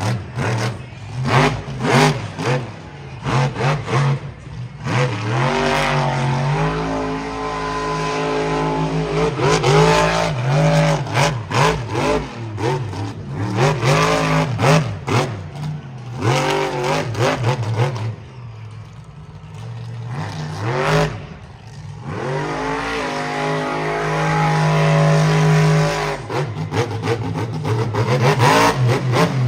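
Monster truck's supercharged V8 engine revving hard, climbing and holding high revs, then easing off. It drops away for a few seconds about two-thirds through, then revs up again.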